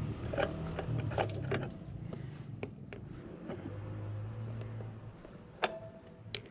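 Scattered clicks, clinks and scrapes of metal parts being handled while working on a scooter's gear shafts, over a low steady hum.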